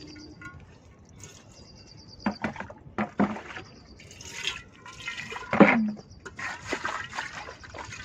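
Metal cooking pots being washed and rinsed by hand with water: splashing and trickling, with several clanks of the vessels, the loudest about five and a half seconds in with a short ring.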